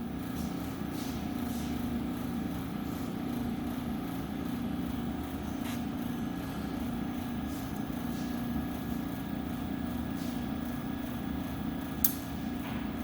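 Alcatel ASM180TD helium leak detector's vacuum pumps running steadily during a cold start, with a low hum and a faint steady whine, while the molecular drag pump comes up to speed. A single sharp click comes near the end.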